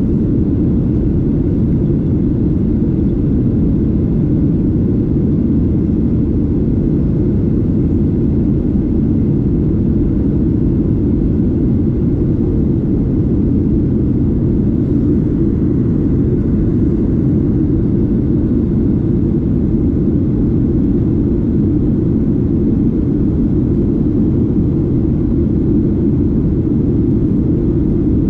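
Steady low rumble of a Boeing 737-8's jet engines and airflow heard inside the cabin from a seat near the engine, holding an even level with no change.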